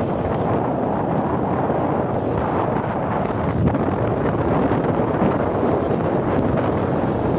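Steady wind noise rushing and buffeting over the microphone, a constant rough rumble with no distinct tones or events.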